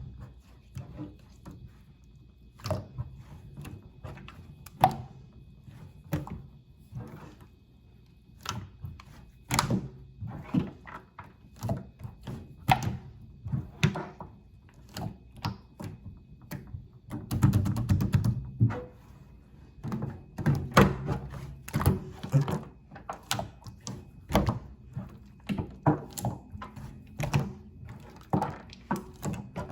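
Hands pressing, poking and squishing slime, making irregular sharp clicks and pops as air pockets burst. The clicks come sparsely at first and crowd together in the second half.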